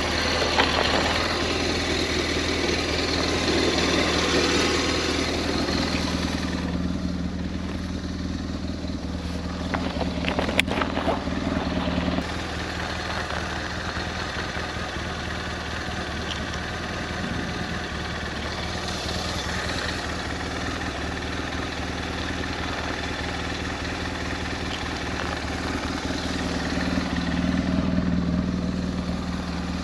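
BMW R1200S motorcycle's boxer-twin engine running steadily, its sound dropping a little about twelve seconds in.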